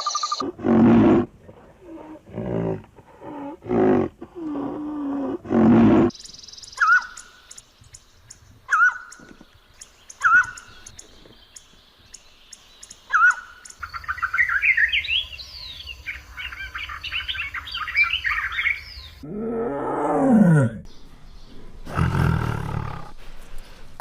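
A run of different animal calls: about five loud, low calls in the first six seconds, then single short chirps every second or two, a busy chorus of rising chirps, a low call falling in pitch, and one more loud, low call near the end.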